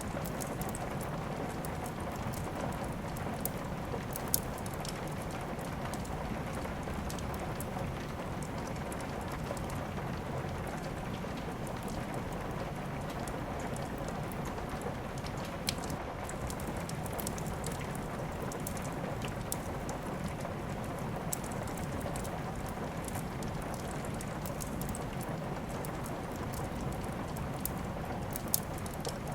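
Steady rain with a wood fire crackling, a few sharp pops standing out now and then.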